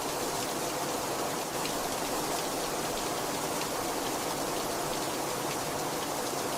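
Heavy rain falling steadily, with the patter of individual drops hitting a surface.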